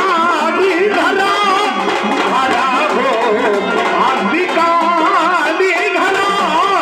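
Marathi folk music with a dholki hand drum keeping the beat under a wavering, bending melody line.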